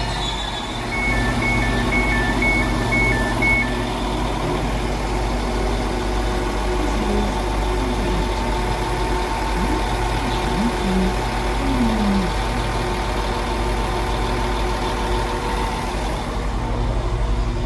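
West Midlands Railway Class 196 diesel multiple unit standing at the platform with its engine idling, a steady low hum. Near the start the door warning sounds as alternating two-tone beeps, about two a second for a few seconds.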